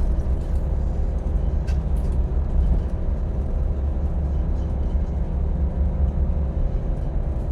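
A boat's engine running steadily with a heavy low rumble and a faint steady hum, and a couple of light knocks about two seconds in.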